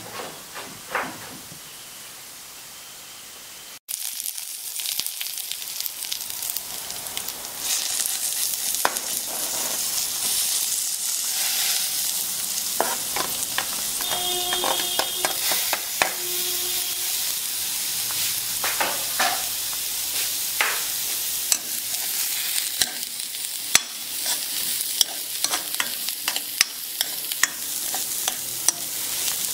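Diced vegetables frying in hot oil in a wok with dried red chillies, sizzling steadily, while a metal ladle stirs them and clinks and scrapes against the pan. The sizzle grows louder after about four seconds, and two short squeaks sound around the middle.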